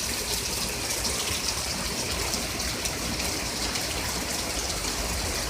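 Steady rain falling and splashing, an even hiss dotted with individual drop ticks.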